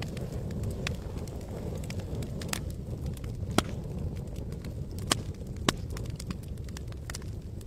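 Campfire burning with a steady low rumble of flame and irregular sharp wood crackles and pops, a few louder snaps scattered through.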